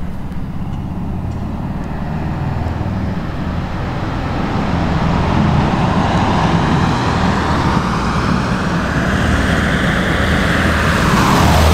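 Air-cooled car engine running under load on a climb, heard with road and wind noise. It grows gradually louder, and its pitch rises over several seconds and falls back near the end.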